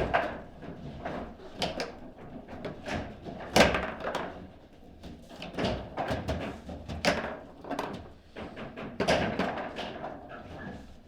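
Table football play: sharp irregular knocks and clacks of the ball being struck by the rod figures and banging against the table, with one louder hit a few seconds in.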